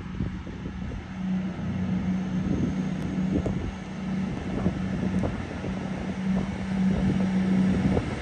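A diesel train at the platform, its engine running with a steady hum, while wind buffets the microphone with low, irregular thumps.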